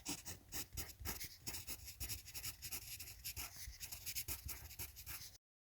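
A quick run of scratchy, rustling strokes, several a second, cutting off abruptly near the end.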